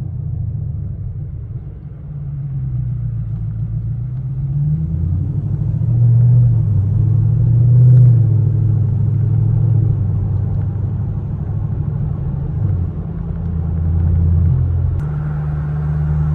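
Chevrolet Camaro SS V8 with a muffler delete, heard under way: a deep exhaust rumble that dips about two seconds in, then rises and falls with the throttle.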